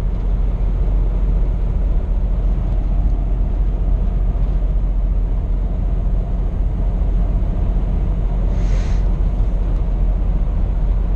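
Steady engine drone and road rumble inside a Scania P420 truck's cab while driving, heaviest in the low end. A short hiss comes in a little over eight seconds in.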